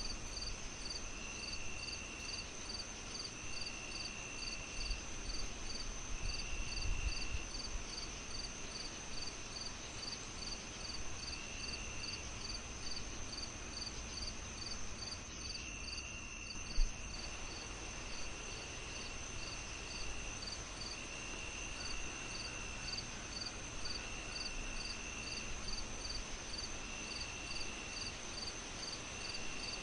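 Crickets chirping in a steady rhythm, high short chirps about twice a second with a longer trill repeating every couple of seconds, over a soft hiss from a fireplace. A single sharp pop from the fire comes about halfway through.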